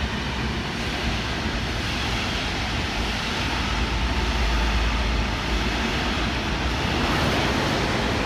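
Trains rolling over the tracks: an ICE high-speed train and a red DB regional train hauled by an electric locomotive. A steady rumbling noise with a deep low rumble, growing slightly louder near the end.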